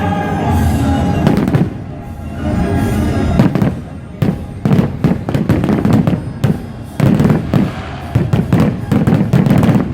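Fireworks going off in dense volleys of sharp bangs and crackle, starting about a second in, with music playing at the start.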